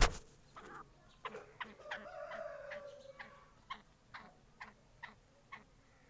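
Black francolin calling: a run of short notes at about two a second, with one longer drawn-out note about two seconds in, the notes growing fainter toward the end. A sharp knock right at the start.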